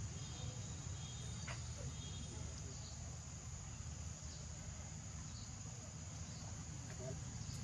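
Steady high-pitched buzzing of insects, likely crickets, over a low rumble.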